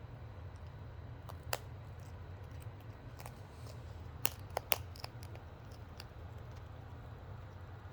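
A few sharp clicks from a cockatoo's beak, one about a second and a half in and a quick cluster of three near the middle, over a steady low hum.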